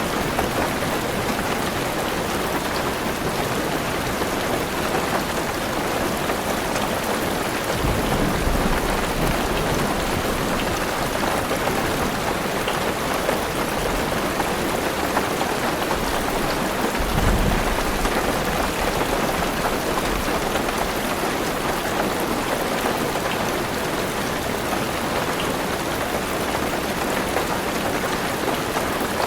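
Heavy rain pattering steadily on a car roof and windows, heard from inside the car. Deep thunder rumbles twice, about a quarter of the way in and again a little past halfway.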